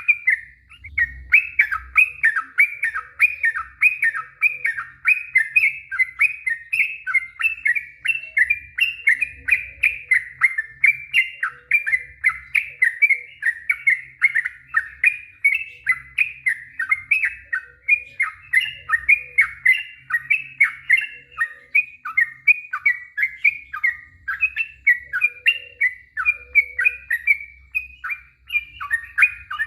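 Yellow-vented bulbul (trucukan) singing a long unbroken run of short, slurred chattering notes, about three a second, without pause. This is the long 'ropel' song that keepers play to bring caged birds into song.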